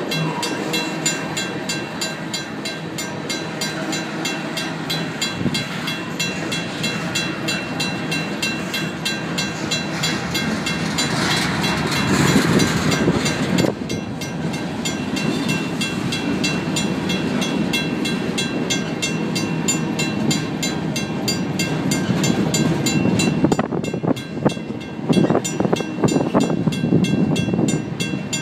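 Empty freight cars rolling past on steel wheels with a steady rumble and clatter of rail joints, louder knocking near the end. Over it a WCH mechanical crossing bell rings steadily with evenly spaced strokes.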